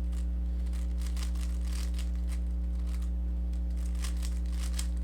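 A Rubik's cube being turned quickly through an algorithm: a scattered run of light plastic clicks and scrapes as the layers turn. A steady electrical hum runs underneath and is the loudest part.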